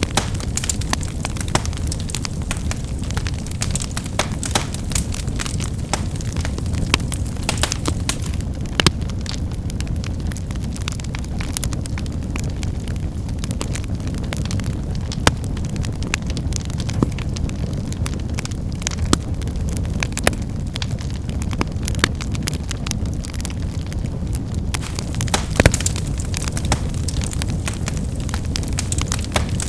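Wood fire burning, a steady low rumble of flames with frequent irregular crackles and the occasional louder snap of firewood.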